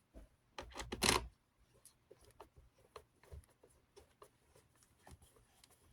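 Plastic parts of a box fan being handled during reassembly: scattered small clicks and rattles, with a louder clatter about a second in.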